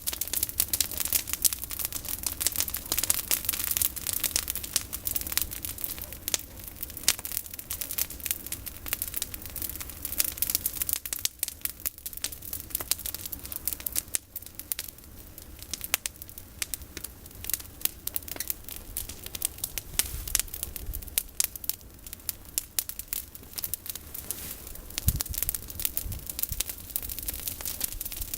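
Campfire of olive-tree prunings burning, the branches crackling and popping in a dense, irregular stream of sharp snaps, over a low steady rumble.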